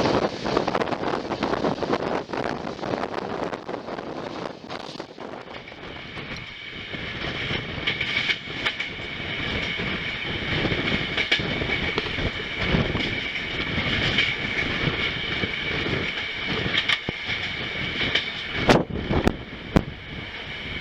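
Moving passenger train running on the track, with rumbling and wheel clatter. A steady high-pitched tone comes in about seven seconds in, and a few loud sharp clacks come near the end.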